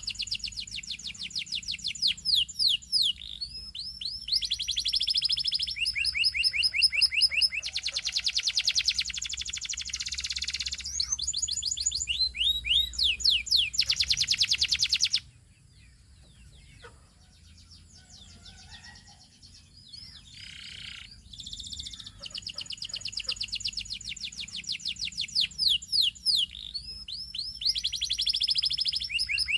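Canary singing: long trilled phrases of very fast repeated high notes and quick falling sweeps. About halfway through, the song stops for several seconds, leaving only faint scattered chirps, then the trilling starts again.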